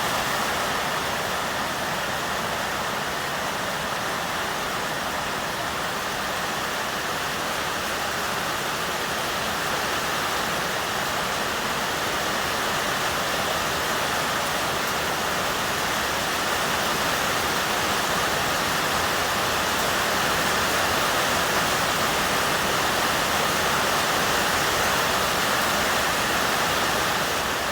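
Rain on a corrugated zinc sheet roof: a steady, dense hiss with no separate drops standing out, growing slightly louder a little past halfway.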